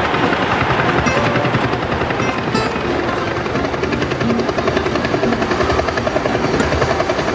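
Model trains running on a layout: a steady, fast rattling clatter of wheels and motors on track.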